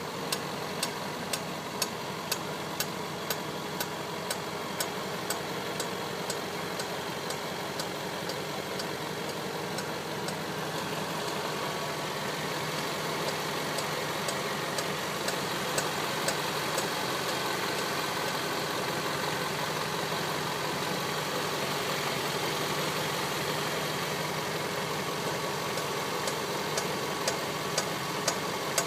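2010 Range Rover Sport Supercharged 5.0L V8 idling warm, with a sharp knock from the front of the engine repeating a little under twice a second. The owner thinks it is outside the engine and suspects the belt-driven viscous-clutch cooling fan hitting something as it spins.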